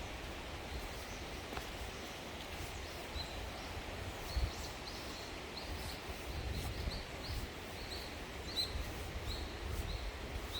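A small bird calling in a run of short, high chirps, starting a few seconds in, over a steady low rumble of wind on the microphone.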